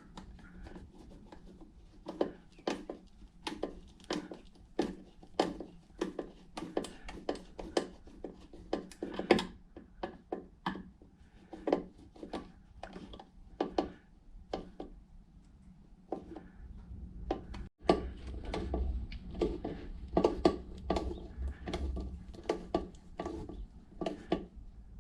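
Scattered light clicks and knocks from hands fitting plastic Wiremold raceway parts against a wall, about one or two a second, with a low rumble in the second half.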